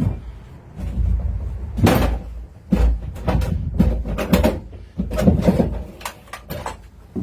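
Rummaging in a cramped wooden booth: a run of knocks, bumps and clatters as objects are handled and shifted, with low rumbling handling noise.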